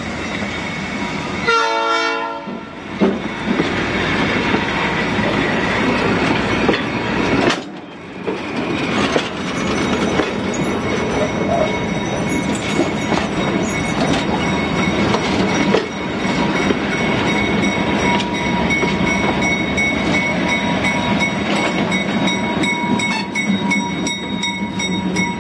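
Passenger train rolling slowly past at close range: a steady rumble and clatter of wheels on the rails, with a short horn blast about two seconds in. The diesel locomotive at the rear of the train comes by near the end.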